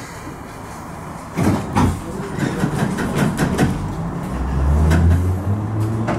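Bakerloo line train heard from inside the carriage: the running noise drops away, a few knocks and clunks come about a second and a half in, then from about four seconds in the traction motors hum low and rise slowly in pitch as the train picks up speed.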